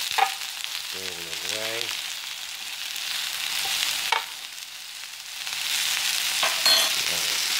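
Sliced red onions and mushrooms sizzling in olive oil in a ridged grill pan, stirred and turned. A metal utensil clicks and scrapes against the pan a few times. The sizzle eases for a moment about halfway through, then comes back up.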